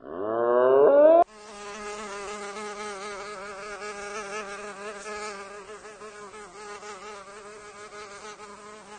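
A loud, rising pitched call lasting about a second, then a steady buzz of an insect in flight, wavering slightly in pitch.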